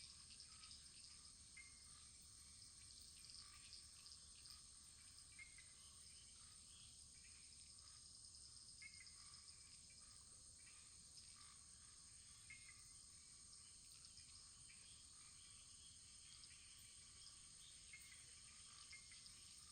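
Faint wood fire burning quietly: small, irregular crackles and ticks scattered over a steady high hiss.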